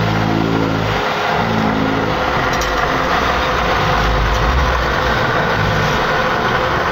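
iRobot Roomba robot vacuum running: a steady whirring of its vacuum fan and brushes, with a low motor hum that stops and starts again in the first couple of seconds.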